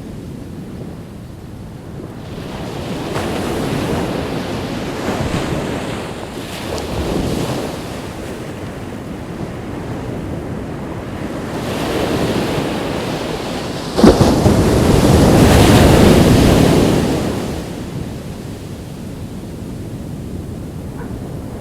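Ocean waves breaking and washing on a beach, with wind buffeting the microphone. The sound comes in rising and falling swells, and the loudest wave breaks suddenly about two-thirds of the way through, then fades over a few seconds.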